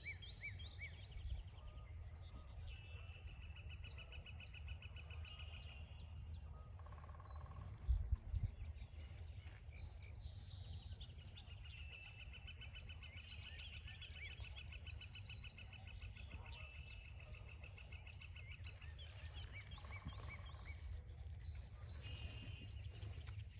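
Wild birds singing: long, fast, even trills, each lasting a few seconds and repeated several times, over a steady low rumble. A brief thump sounds about eight seconds in.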